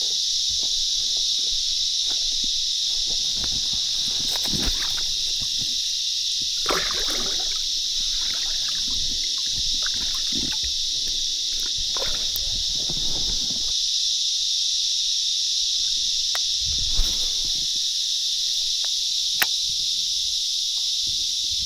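Steady, high-pitched chorus of insects, a continuous shrill buzzing hiss, with occasional small knocks and water splashes.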